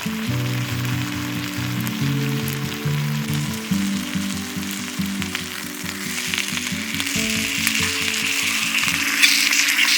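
Steady sizzling and crackling, getting a little louder in the second half, under background music of low sustained notes.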